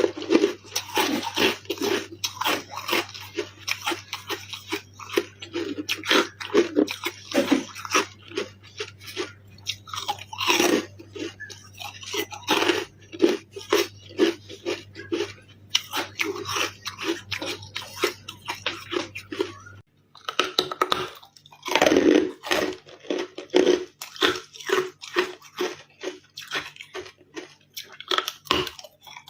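Close-up chewing of carbonated ice: a dense, fast run of crisp crunches and bites, one after another.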